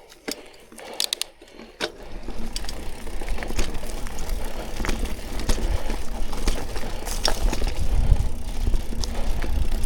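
A few sharp clicks in the first two seconds, then a mountain bike setting off on a dirt trail: tyres rolling, with scattered rattling ticks and a low wind rumble on the mic that builds as it picks up speed.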